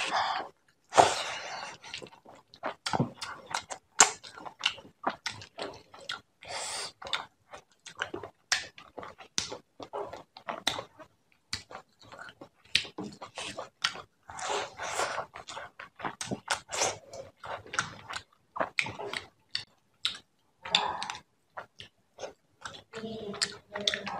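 Close-miked eating by hand: wet chewing and mouth smacks on rice and fish head curry, with fingers squishing through curry-soaked rice on the plate. It comes as many short sharp smacks and clicks, with a few longer wet stretches and brief pauses between mouthfuls.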